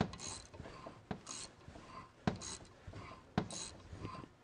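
SK X-Frame ratcheting end wrench worked in steady strokes, roughly one a second. Each stroke gives a short rasp of the fine ratchet and a sharp click.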